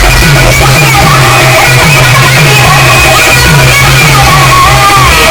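Music played at full volume through a large DJ sound system, with a steady stepping bass line under a melody.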